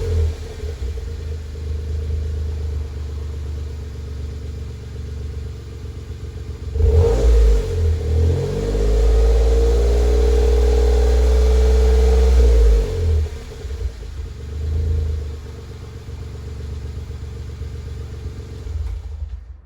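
Suzuki Jimny JB23's 660 cc turbocharged three-cylinder engine running through an aftermarket MRS muffler. It idles, is revved up about a third of the way in and held for several seconds, then drops back to idle, with a short blip shortly after. The sound cuts off just before the end.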